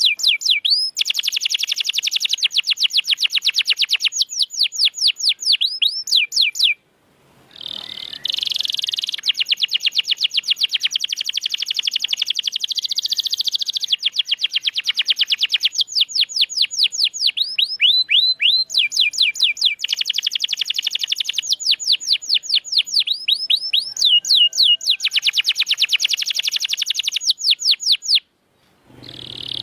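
Domestic canary singing: long, rapid trills of repeated sweeping notes, high-pitched. The song breaks off briefly twice, once about seven seconds in and once near the end.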